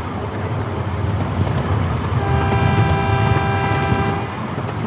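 A ride-on amusement park train running along its track with a steady rumble, sounding one blast of its horn about two seconds in, a chord of several steady notes held for about two seconds.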